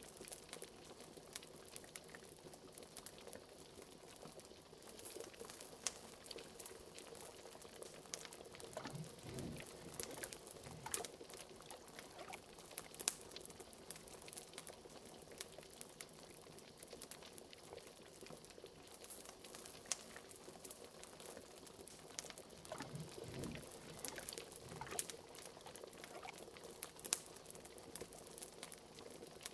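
Liquid bubbling in a pot, with a few deeper gurgles about nine and twenty-three seconds in, over the frequent small pops and crackles of a wood fire.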